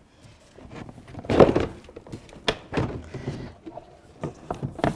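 Plastic interior door trim panel being worked off the door: a dull thunk about a second and a half in, then several sharper plastic clicks and knocks.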